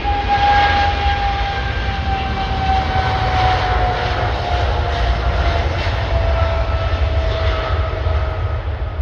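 Jet airliner's engines running as it passes: a loud low rumble under a whine that slides slowly down in pitch.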